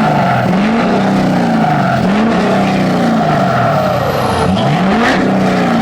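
Lifted truck's engine being revved over and over through a loud exhaust, its pitch climbing and falling about every one and a half to two seconds.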